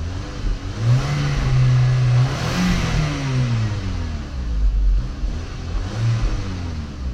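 A 2006 VW Passat's turbocharged FSI engine, fully warm, is revved up and let fall back, then blipped again near the end. It runs smoothly with no engine chatter, now that the oil and oil filter cartridge have been changed after a head gasket repair.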